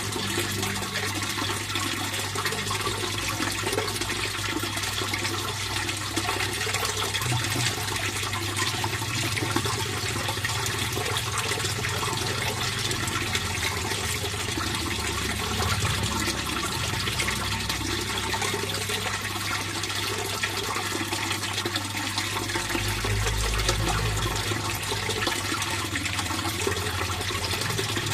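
Water flowing and splashing steadily in a fish pond, a continuous, unbroken rush.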